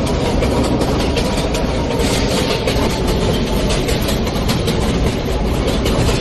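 Inside a New York City Subway J train running between stations: steady rumble and rattle of the car, with many small clicks of the wheels over the rails and a faint steady whine.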